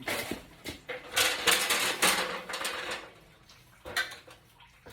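Old insulation paper being torn and scraped off a cast iron drain pipe, in a run of rough scraping and ripping bursts that are loudest from about one to three seconds in, with a short sharp scrape near the end.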